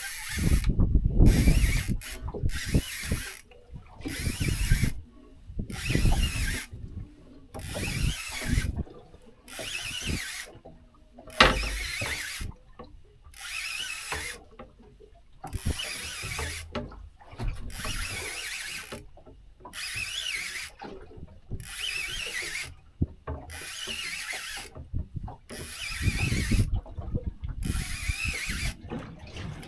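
Fishing reel clicking in repeated bursts, about one every second and a half to two seconds, as line is wound in against a hooked fish.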